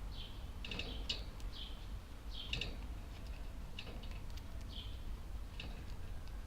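Budgerigar chirps: about a dozen short, high calls coming at irregular intervals, over a steady low hum.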